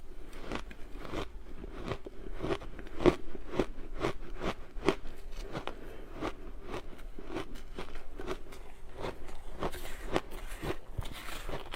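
Crunchy ice being chewed close to the microphone: a steady run of sharp crunches, about two a second.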